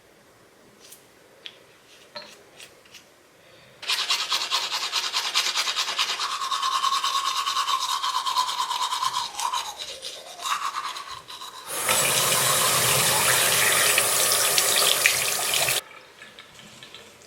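Teeth being brushed with fast scrubbing strokes, starting about four seconds in after a few faint clicks; then a sink tap runs for about four seconds and is shut off.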